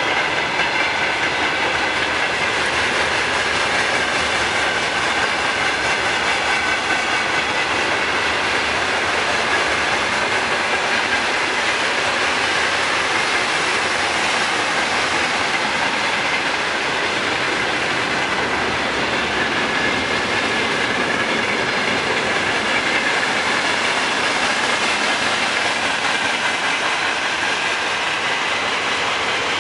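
Freight train passing, its wagons' wheels rolling steadily over the rails with a clickety-clack at the rail joints.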